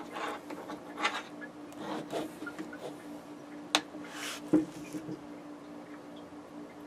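Hands handling wiring and small parts: light clicks and rustles, then a sharp click about four seconds in and a dull knock just after. A faint steady hum runs underneath.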